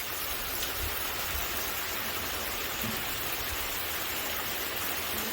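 Heavy rain pouring down steadily, a continuous even hiss.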